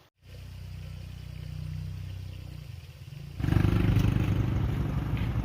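Small engine running steadily, then growing much louder and throbbing from about three and a half seconds in.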